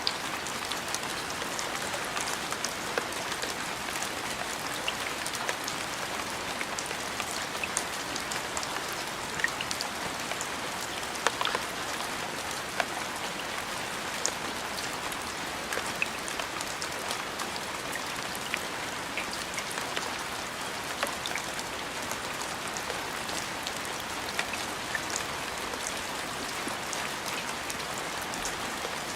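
Steady rain falling on a surface, an even hiss with many single drops ticking sharply through it.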